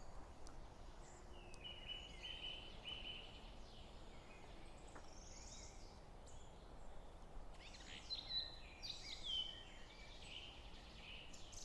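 Small birds chirping and singing, faint, over a low steady background hum; a short run of calls comes about a second and a half in, and a busier stretch of calls in the last few seconds.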